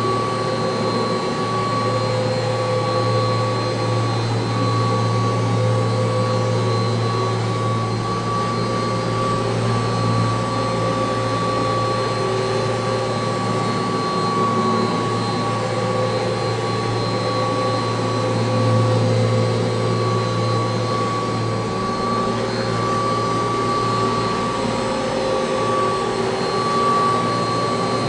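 1985 Kirby Heritage II upright vacuum cleaner running steadily, a constant high whine over a low hum.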